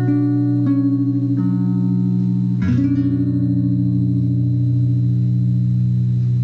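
Guitar playing the instrumental ending of the song: a few single plucked notes, then a chord struck a little under three seconds in and left ringing over a steady low drone.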